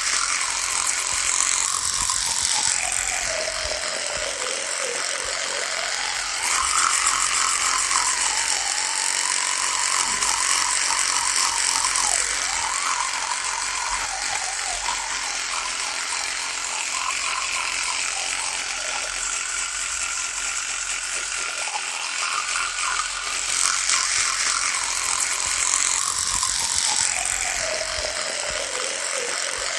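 Electric toothbrush running without a break, a steady buzzing rattle. Its pitch sags and recovers every few seconds, most clearly near the start and again near the end.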